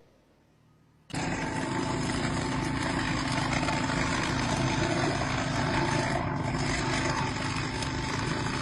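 Steady machinery noise with a faint hum, starting abruptly about a second in after a brief silence.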